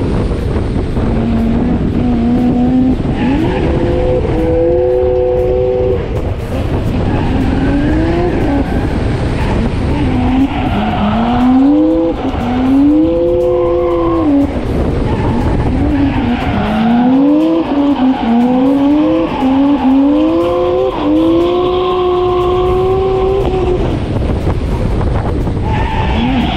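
Drift car's engine revving hard, its pitch climbing and dropping again and again as the throttle is worked through the slides, heard from on board over rushing road and wind noise. Tyres squeal and skid in between.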